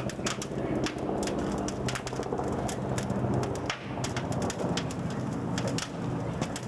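Wood fire crackling and popping in the firebox of a 1902 steam fire engine's boiler as it comes up on steam, the sharp irregular snaps over a steady low hum.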